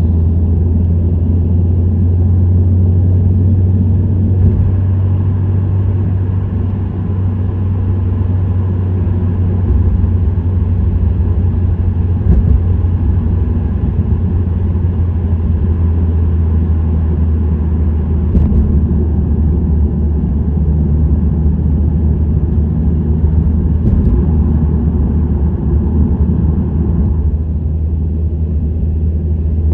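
Subaru WRX STI (VAB) with its turbocharged EJ20 flat-four and STI Performance muffler cruising steadily at highway speed: a steady low exhaust hum under road noise.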